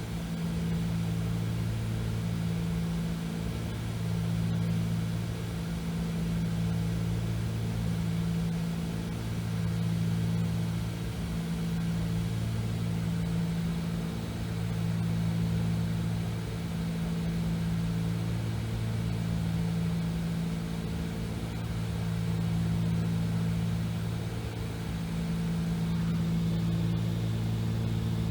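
Cessna 310's twin piston engines and propellers running steadily in flight, heard from inside the cabin, with a low drone that swells and fades in a slow regular beat about every two seconds.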